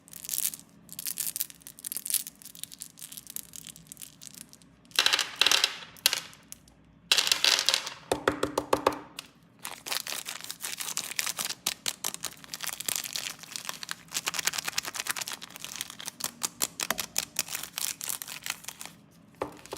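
Snack packaging being unwrapped: plastic wrappers crinkling and tearing in dense bursts, with many small sharp crackles and clicks.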